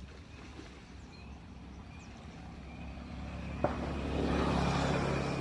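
A motor engine running with a low steady hum, growing louder through the second half, with a single sharp click a little past halfway.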